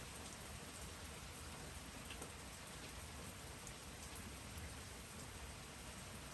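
Steady rain falling, with a few separate drops ticking through it.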